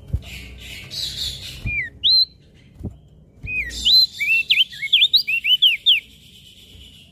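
Crested white-eye (opior jambul) singing. A buzzy, rasping chatter and a couple of short slurred whistles lead into a quick run of sharp whistled notes sliding up and down, from about three and a half seconds. A few low thumps are heard early on.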